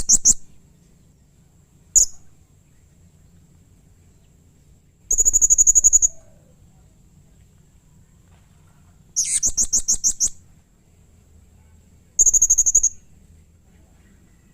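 Blue-crowned hanging parrot (serindit) calling in short bursts of rapid, shrill, high-pitched notes, each burst about a second long, repeated every few seconds with a single short note in between.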